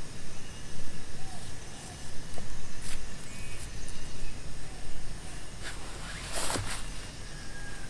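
Steady rain and wind noise with a low rumble of wind on the microphone. A few faint clicks and a brief, louder swish come about six and a half seconds in.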